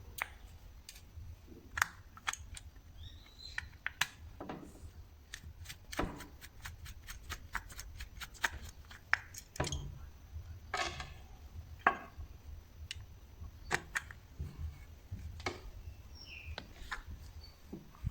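Irregular sharp clicks and light taps of small metal parts and hand tools being handled while working on a starter motor, some in quick runs, over a low steady hum.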